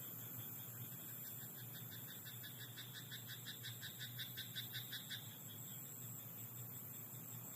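A frog in a rice paddy croaking in a rapid, even series of calls, about six a second, starting just over a second in and running for about four seconds, growing louder toward the end of the run.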